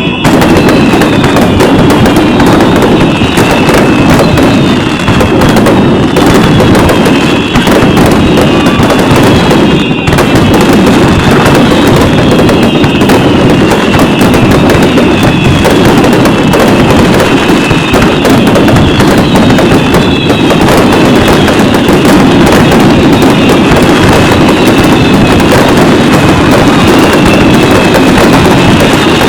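A dense barrage of fireworks: rapid, overlapping bursts and crackling merge into a continuous din, with high whistles that glide down in pitch and recur every second or two.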